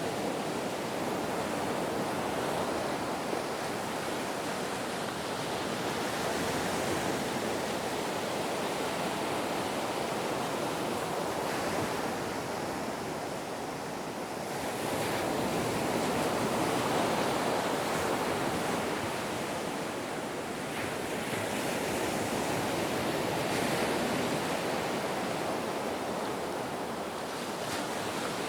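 Ocean waves breaking and washing in, a continuous surf rush that swells and eases every few seconds.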